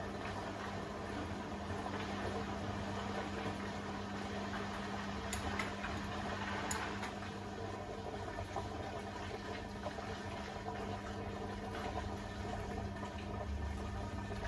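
Beko WTK104121A washing machine mid-cycle: water running and sloshing in the drum over a steady hum, with a couple of faint clicks around five and a half and seven seconds in.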